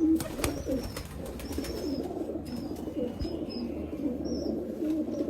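Several domestic pigeons cooing continuously, their calls overlapping, with a few sharp clicks near the start.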